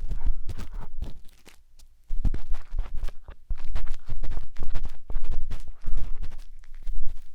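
Close-up scratching and scraping of an ear-cleaning tool inside the silicone ear of a 3Dio binaural microphone, with dense crackly clicks and low rumbles of handling. It stops for under a second about a second and a half in, then starts again.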